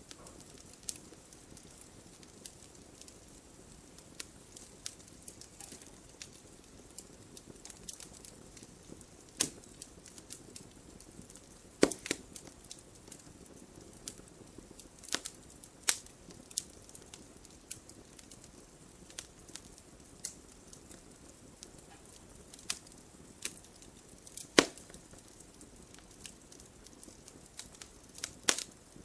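Wood fire crackling in a fireplace: irregular sharp snaps and pops over a low, steady hiss, with the loudest pops about twelve seconds in and again near twenty-five seconds.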